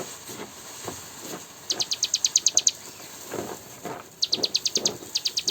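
Cigun songbird singing: three rapid, high ticking trills of about a dozen notes a second, each lasting up to about a second, with softer lower chirps between them.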